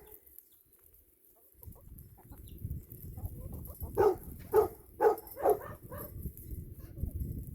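Chickens clucking: after a quiet start, a run of short clucks begins about four seconds in.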